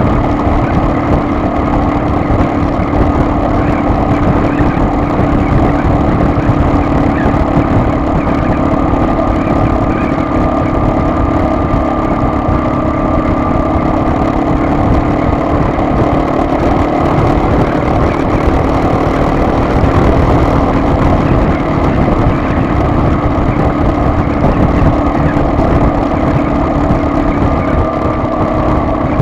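Car driving: steady engine hum and road noise with no changes.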